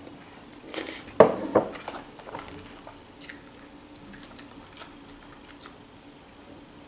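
A person chewing a mouthful of food close to the microphone, with soft wet mouth clicks. A short noisy burst and a sharp knock come about a second in, over a faint steady hum.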